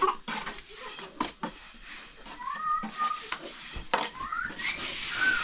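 Scattered clicks and knocks of kitchen utensils and dishes being handled, with short high-pitched voice sounds about halfway through and again near the end.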